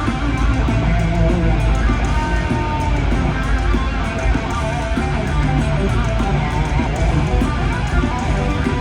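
Electric guitar playing a lead solo over a full band backing with bass and drums.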